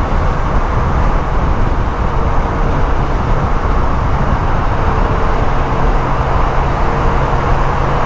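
Motorcycle cruising at a steady speed: an even engine drone under loud wind and road noise.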